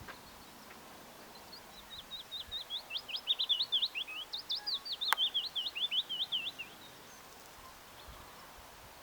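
A songbird sings one long song of rapid, high chirps lasting about five seconds, with a single sharp click partway through.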